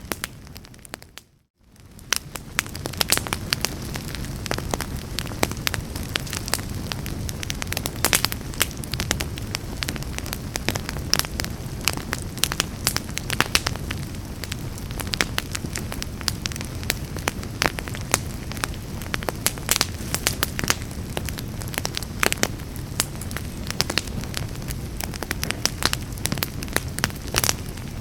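Wood fire in a fireplace crackling, with frequent sharp pops over a steady low rumble of flames. About a second in the sound dips almost to silence and fades back up.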